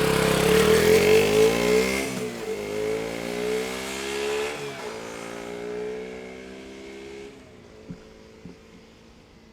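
KTM Duke 125 with its stock exhaust, its single-cylinder 125 cc engine accelerating hard, the pitch rising and dropping twice as it shifts up, then fading away into the distance.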